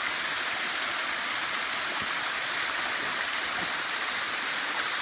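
Small waterfall splashing down a rocky stream: a steady, even rush of falling water.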